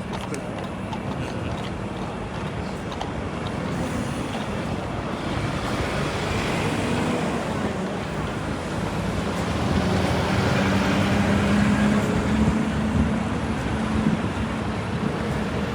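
A passing motor vehicle or aircraft engine: a broad rushing noise with a steady low hum that builds up and is loudest late on, then eases slightly.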